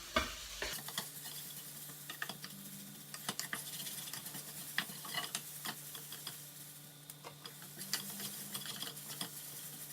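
A spoon stirring and scraping in a pan of onions, garlic, ginger and spices, making scattered short clicks against the pan over a light sizzle. A steady low hum runs underneath.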